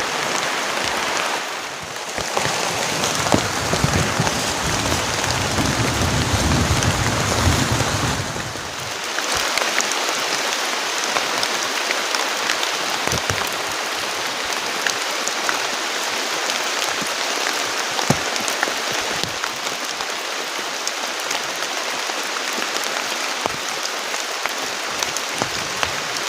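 Heavy rain falling steadily, a dense hiss with scattered drop ticks. Between about two and nine seconds in, a low rumble runs underneath it.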